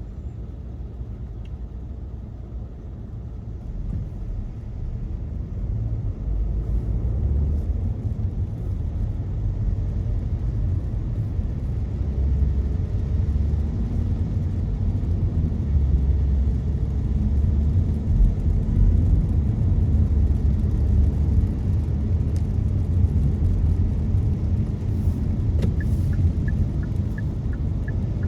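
Car cabin road noise from driving on a wet road: a steady low rumble that grows louder about four to six seconds in, with light regular ticking near the end.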